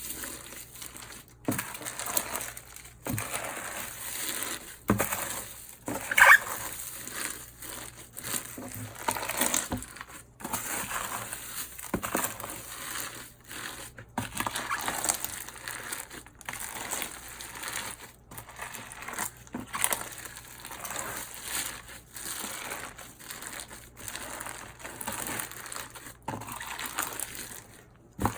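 Hands kneading and stretching a large batch of slime: irregular sticky crackling, clicks and small pops, with a louder snap about six seconds in.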